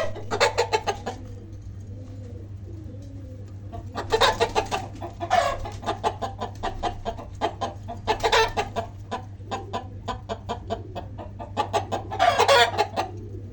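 Birds calling in four loud bursts of rapid, pulsed chatter, with quicker clicking calls in between, over a steady low electrical hum.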